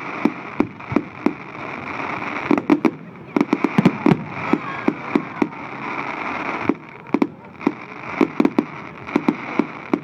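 A fireworks display going off: many sharp bangs and crackles in quick clusters, over a steady hiss that drops back about two-thirds of the way in.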